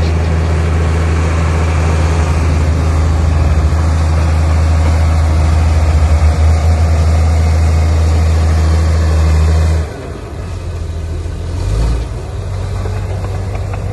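Heavy construction machine's diesel engine running loudly with a steady low hum, then dropping off sharply about ten seconds in, with a brief swell near twelve seconds.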